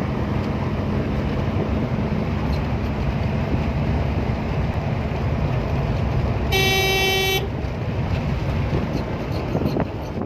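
Heavy rain pouring steadily. About six and a half seconds in, a vehicle horn sounds once for under a second.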